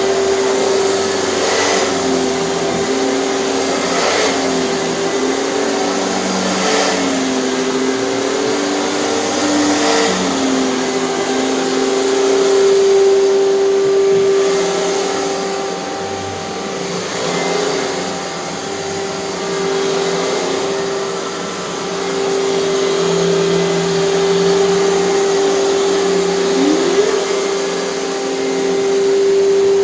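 Hoover TurboPower 5000 canister vacuum running, a steady whine with lower tones that wobble in pitch and the sound swelling and easing every few seconds as it is worked.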